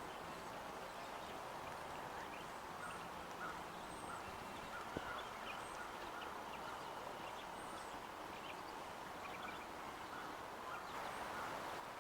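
Birds calling outdoors: short, high, thin chirps repeated every second or so, with some lower short calls, over a steady background hiss.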